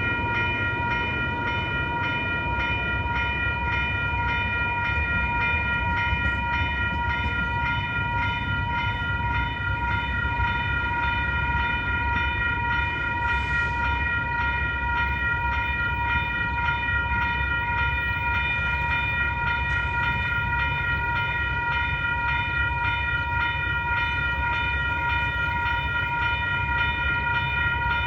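Idling train: a steady, unchanging high-pitched whine over a low rumble.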